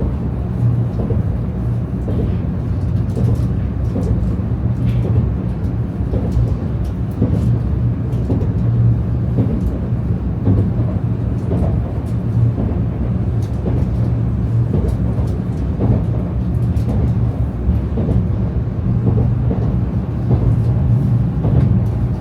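Shinkansen bullet train running, heard from inside the passenger cabin: a steady low rumble with scattered faint clicks.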